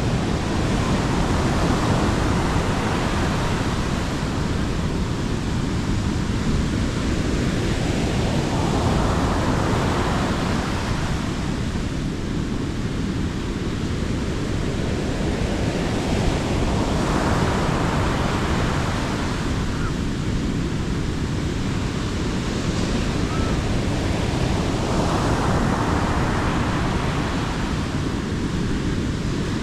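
Sea waves breaking on the beach, each wash swelling and fading about every eight seconds over a steady low rumble of surf.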